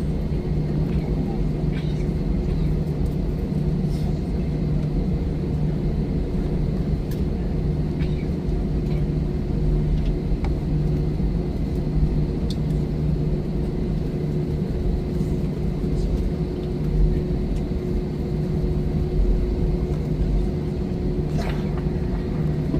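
Airliner cabin noise with the engines running: a steady low rumble with a constant hum, heard inside the cabin while the plane taxis after landing, with a few faint clicks.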